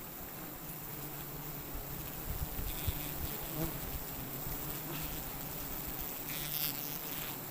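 A swarm of wild honeybees buzzing steadily around their nest as it is cut open for honey, with a few faint knocks.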